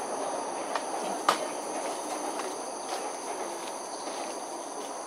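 MRT train running along an elevated track, a steady rumble that eases slightly, over a steady high-pitched insect chirring. A single sharp click sounds about a second in.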